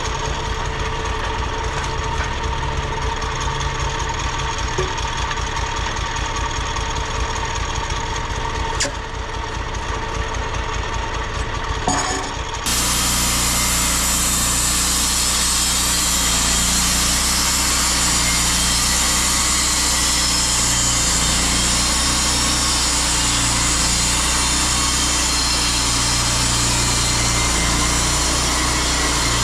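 Sawmill running on a cedar log: the engine runs steadily, then about twelve seconds in the sound jumps abruptly louder and denser as the blade takes the cut, and it holds there.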